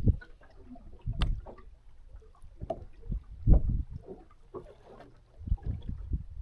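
Irregular low knocks and thumps on a small fishing boat at sea, with a sharp click about a second in.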